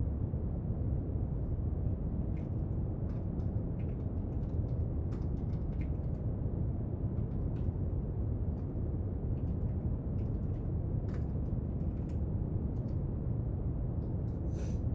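Steady brown noise, deep and even, with faint, irregular small clicks and taps of desk study work scattered through it and a slightly louder tap near the end.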